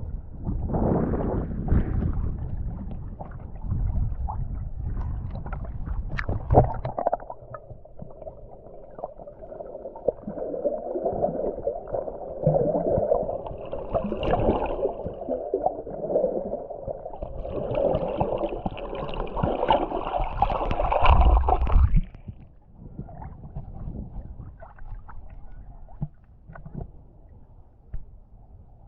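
Sea water gurgling and sloshing against a muffled microphone held in the water. A heavy low rumble for the first seven seconds, then quieter after about 22 seconds.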